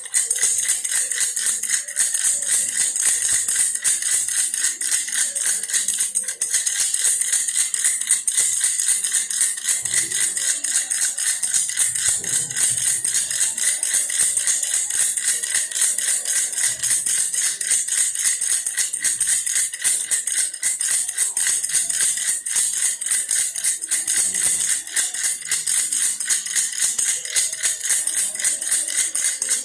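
Baby's toy bear rattle shaken steadily without a break, a dense fast rattling of small beads.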